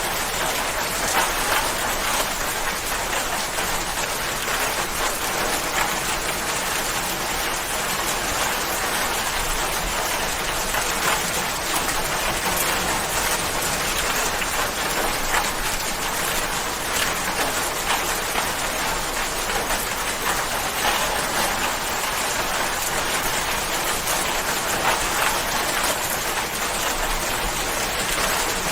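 Steady rain falling, a dense even hiss of drops on a surface with fine individual drop spatters through it.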